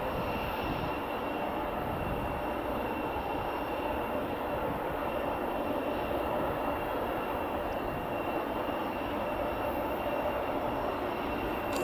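Boeing 787-8 Dreamliner's jet engines running steadily on landing, a continuous rumble with a thin high-pitched whine.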